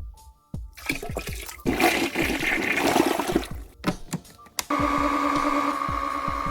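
Cordless wet-dry floor vacuum running its self-cleaning cycle: a rush of water being flushed through the brush roller and sucked up, then, from a little past the middle, a steady motor hum.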